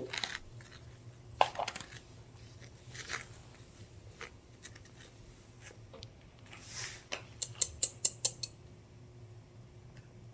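Small objects handled on a table: scattered light taps and soft rustles, then a quick run of about six sharp clicks around eight seconds in.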